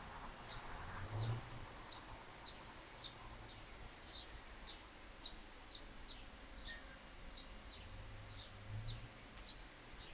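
A small bird chirping over and over in short, high chirps that fall in pitch, about two a second. A faint low hum comes and goes twice.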